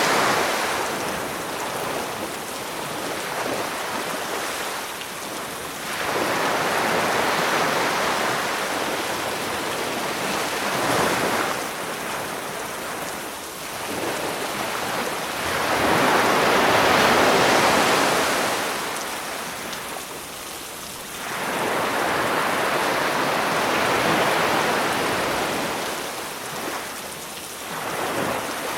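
Sea waves breaking on the shore in slow surges, one about every five or six seconds, each swelling and fading away, over a steady hiss of falling rain.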